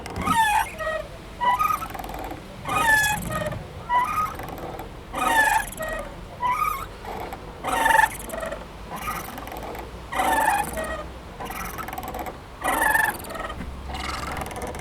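Playground swing squeaking back and forth as it swings: a short squeak that slides in pitch about every second and a half.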